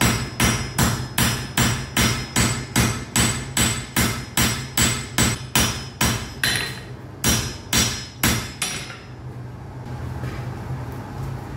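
Hand hammer striking iron on an anvil in a steady rhythm, about two and a half blows a second, each with a bright metallic ring. The blows stop a little after eight seconds in, leaving a steady low hum.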